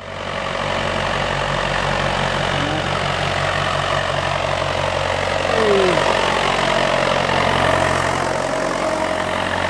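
Tractor engine running steadily at a low, even speed, with a brief falling whine about halfway through.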